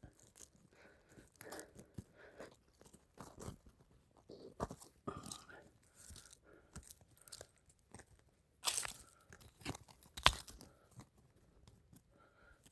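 Irregular crunching, scraping and tearing of soil and roots as wild astragalus (hwanggi) root is dug out by hand, with a few sharper knocks, the loudest about nine and ten seconds in.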